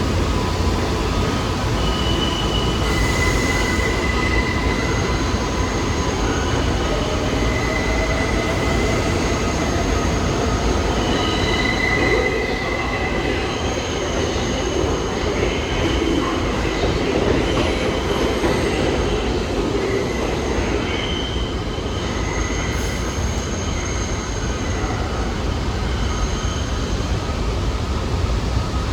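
New York City subway train moving through the station, with a steady rumble of wheels on rail. High-pitched wheel squeal comes and goes over it.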